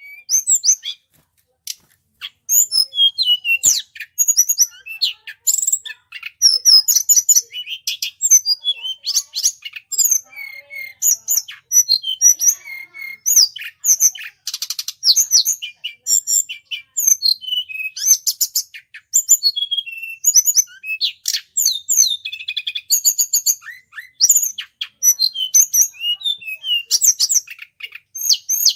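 A small tledekan bird chirping and twittering, the kind of call played to lure tledekan. It is a fast, nearly continuous run of high, quick sweeping notes with only a brief pause near the start.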